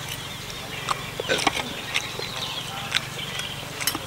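Close-up chewing and mouth sounds of a person eating a steamed duck egg, with a few short sharp clicks scattered through, the strongest near the end.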